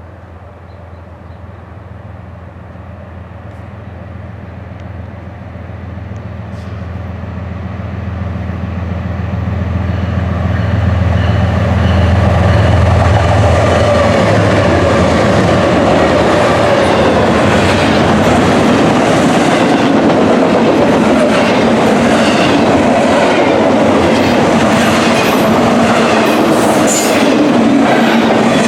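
A BNSF intermodal freight train approaching and passing at speed. The low rumble of its diesel locomotives grows steadily louder over the first dozen seconds. Then the cars roll by with a loud, steady rush of wheels on rail and a regular clickety-clack.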